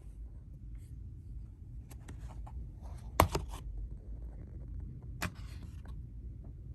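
A few sharp clicks and knocks, the loudest a quick cluster about three seconds in, over a steady low hum of room tone.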